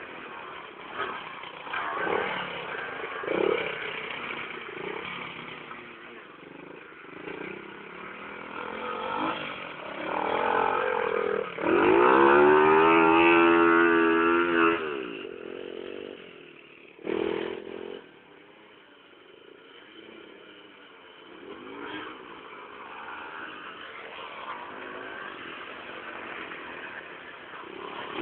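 Small mini-motorbike engines revving and easing off as they ride. About halfway through, one comes close and is loudest: its engine note climbs and holds high for a few seconds, then drops away.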